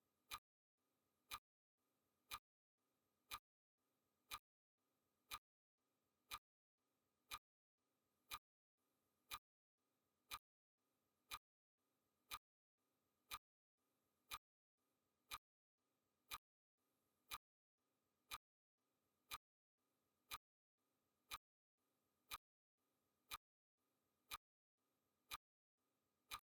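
Faint clock-ticking sound effect: one sharp tick each second, at an even, steady pace.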